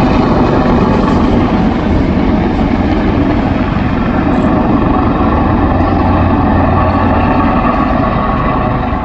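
Turbine helicopter running loud and steady, its rotor giving a fast low beat over the whine and rush of the engine.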